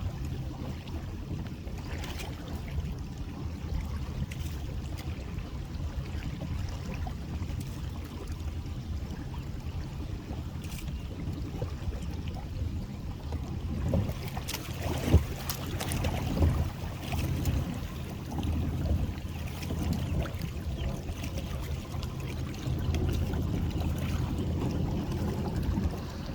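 Small boat's motor running steadily at low speed, with wind buffeting the microphone. A few sharp knocks come near the middle, one louder than the rest.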